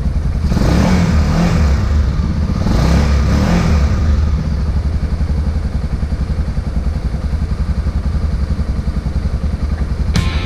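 Motorcycle engine running on test after repairs, swelling twice in the first few seconds, then running steadily. Music comes in near the end.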